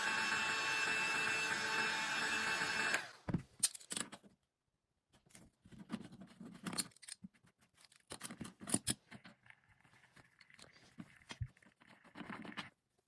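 Water running steadily from a faucet with a hiss that cuts off about three seconds in, then clicks, knocks and scrapes of metal faucet parts and tools being handled.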